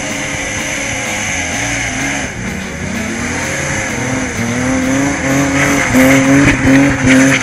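Opel Commodore B GS/E's fuel-injected straight-six revving hard as the car slides sideways on snow. The revs dip and climb again, then hold high in short surges, loudest near the end.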